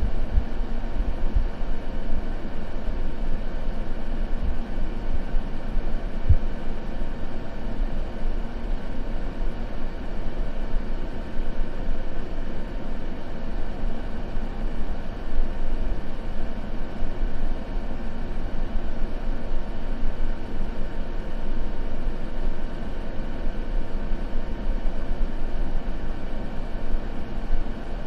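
Continuous white-noise ambience, steady and muffled, weighted toward the low end so that it sounds deep and rumbly rather than hissy.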